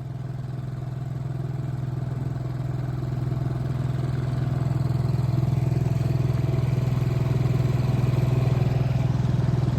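7 hp four-stroke outboard motor running steadily under way, its hum growing gradually louder over the first few seconds. The motor is brand new and being run easy while it is broken in.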